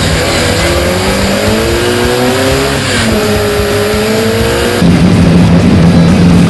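Classic Mini's engine heard from inside the cabin under hard acceleration: the revs climb for about three seconds, drop briefly, then climb again. About five seconds in it cuts to another car's engine heard from the trackside, louder and holding a steady note.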